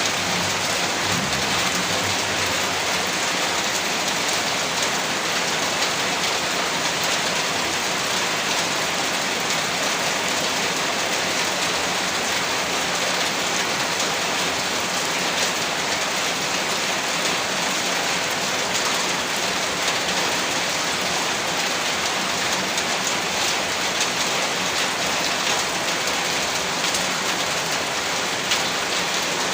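Heavy rain falling steadily on a roof: a dense, even hiss of drops with no letup.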